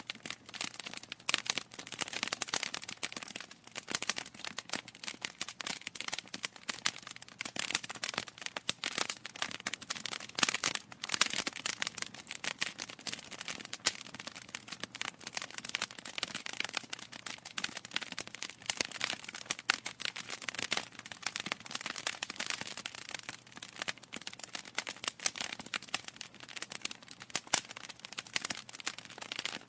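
Wood logs burning in a fireplace: a steady run of irregular crackles and sharp pops.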